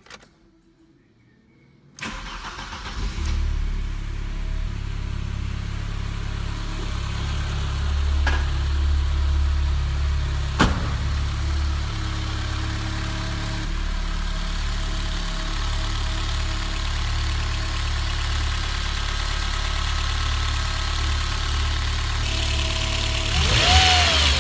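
BMW E30 M3's S14 four-cylinder engine, with individual throttle bodies, starting suddenly about two seconds in and settling into a steady idle, with a couple of sharp clicks. Near the end it is revved briefly by hand at the throttle linkage.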